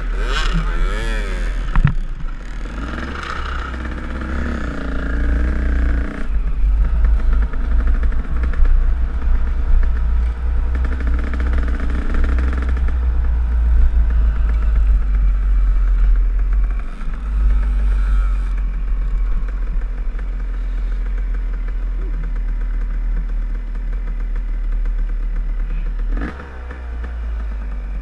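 Enduro dirt bike riding a trail, its engine revving up and down with the throttle, over a heavy, steady low rumble and some rattling.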